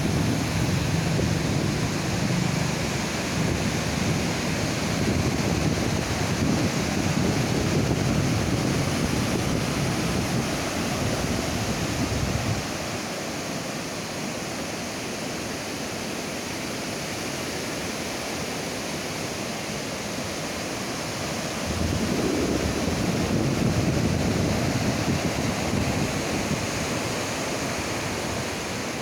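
Ocean surf washing onto a beach, a steady rushing noise. A deeper rumble underneath drops away suddenly about halfway through and swells back in the last quarter.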